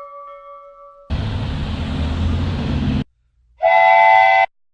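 A ringing tone fades out over the first second. Then comes about two seconds of low rumbling train-like noise, and after a short gap a short multi-note horn blast. Each of these cuts off abruptly, as edited-together clips do.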